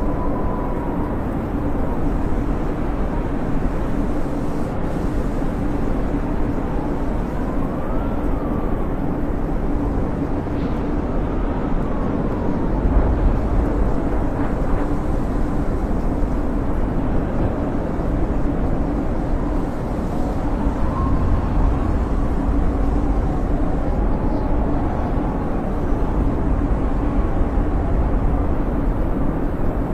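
Snowstorm wind blowing steadily with a deep rumble, and a thin whistle wavering up and down in pitch above it.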